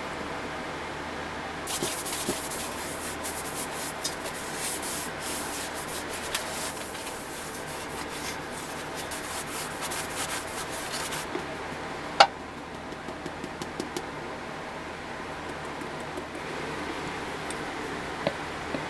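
Scratchy rubbing or sanding by hand for about ten seconds, then one sharp click followed by a few light ticks.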